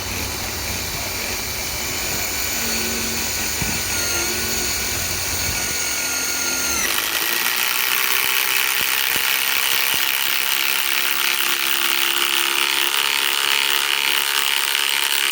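Ryobi PSBIW25 compact cordless impact wrench driving a 5/16 by 3 inch galvanized lag screw into undrilled wood, running continuously under load. Its sound changes about seven seconds in and carries on steadily after that.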